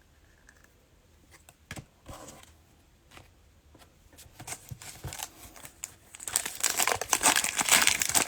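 Cellophane wrapper of a trading-card cello pack being torn open and crinkled. A few light clicks come first, then crinkling that grows loud over the last few seconds.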